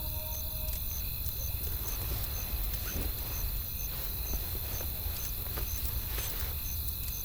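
Wood fire crackling, with scattered sharp pops over a steady low rumble of wind. A faint high tick repeats about twice a second.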